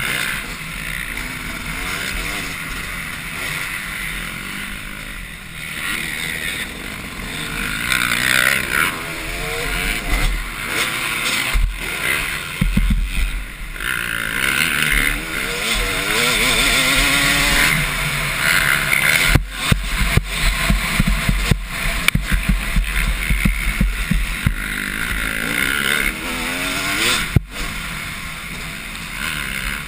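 Two-stroke motocross bikes racing, their engines revving up and falling away again and again.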